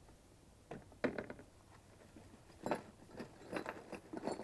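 A series of sharp clicks and light rattles of small metal tools being handled and opened, a few knocks a second apart.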